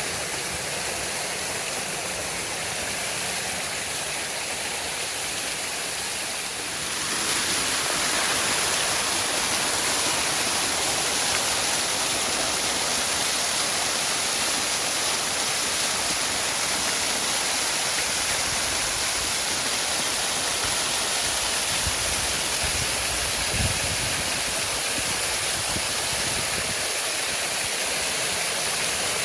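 Waterfall: a steady rush of falling and splashing water, which becomes louder and brighter about a quarter of the way in.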